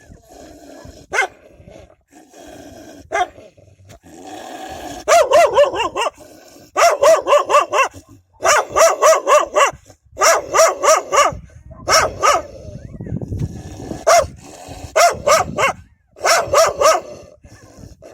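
Dogs barking protectively, in loud volleys of rapid barks, about four or five a second, with short pauses between the volleys. The barking starts about five seconds in, after a few seconds of quieter, lower sound.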